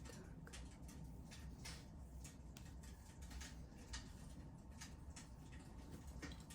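Wood burning in a fireplace, crackling faintly with irregular soft pops and snaps over a low steady hum.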